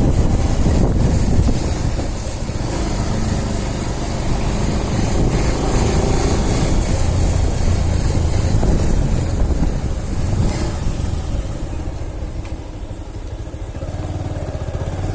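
Bajaj Pulsar single-cylinder motorcycle engine running while riding along, with a hiss of wind and road noise that thins out after about ten seconds.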